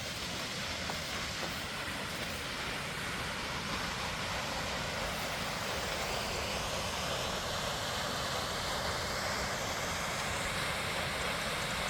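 Aira Force waterfall: a steady rush of falling water, slowly getting a little louder.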